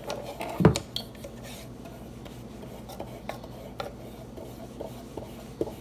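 Paintbrush rubbing and dabbing on a wooden birdhouse, with light taps and clicks of paint pots and brushes being handled and one louder knock under a second in.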